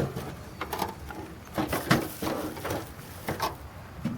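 A few irregular short knocks and rustles, spaced unevenly, over a quiet background.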